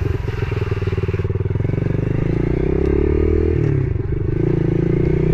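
Yamaha TT-R110E pit bike's small four-stroke single engine running under way. Its revs climb for a couple of seconds, drop suddenly about three and a half seconds in, then hold steady.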